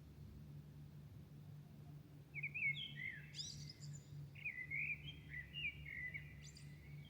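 A songbird singing varied warbling phrases with quick rising and falling notes, starting about two seconds in and ending just before the end. The song carries over a low steady hum.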